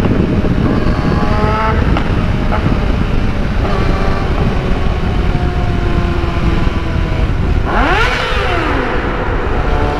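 Yamaha YZF-R6 sport bike's inline-four engine revving hard inside a road tunnel, its note climbing in steps as it pulls up through the gears. About eight seconds in, a sharp rev rises steeply and falls away.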